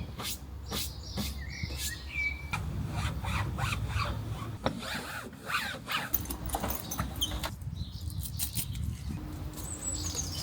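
Irregular clicks, knocks and rubbing over a low rumble, with a few short bird chirps.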